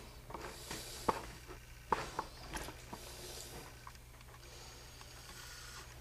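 A scattered run of small clicks and taps, as of handling, for about three and a half seconds, then only a faint steady hiss.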